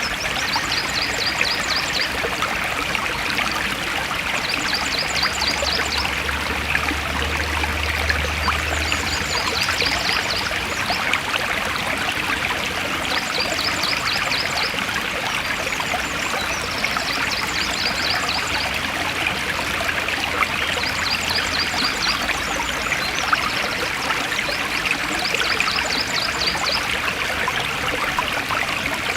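Forest stream flowing steadily, a continuous rushing and trickling of water. A short, rapid high trill recurs every few seconds over it.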